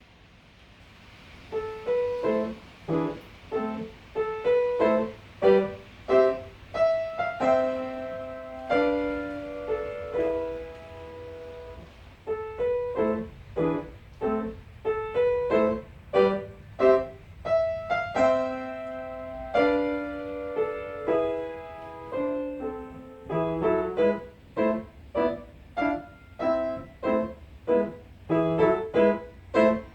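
Background music: a gentle solo piano melody of separate notes, with a few held chords, coming in about a second and a half in.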